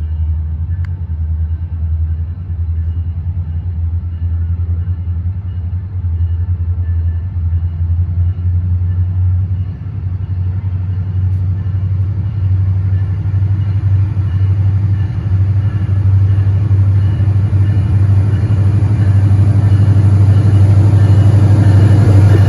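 Train rumbling: a steady, loud low drone that grows louder toward the end, with more hiss coming in.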